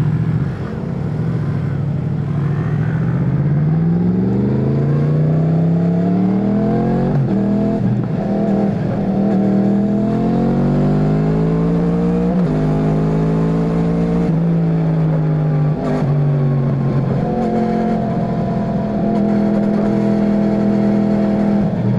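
Yamaha MT-10's crossplane inline-four engine pulling up through the gears: the revs climb and drop sharply at several upshifts, then hold fairly steady near the end.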